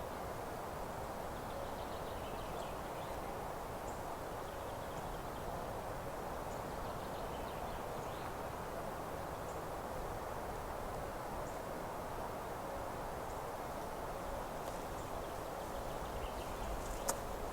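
Meadow ambience: a steady, even hiss with faint, scattered bird calls now and then and a single sharp click near the end.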